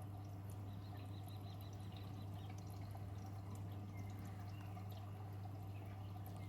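Beko washing machine taking in water early in a wash: water pouring and dripping into the drum over a steady low hum.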